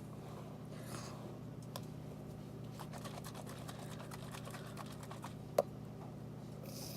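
A run of small, light clicks and taps from slime supplies being handled (plastic bottle, container and spoon), thickest in the middle, with one sharper click about five and a half seconds in, over a low steady hum.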